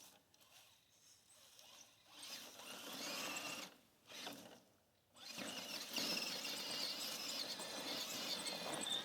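Electric motor and gear drivetrain of a scale RC crawler truck whining as it strains at an obstacle. The whine comes and goes in short spells, then runs steadily from about halfway through.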